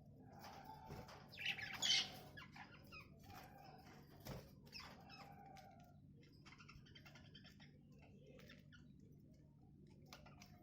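Budgerigars chirping and chattering in short, faint calls, with a louder burst of chirps about a second and a half in.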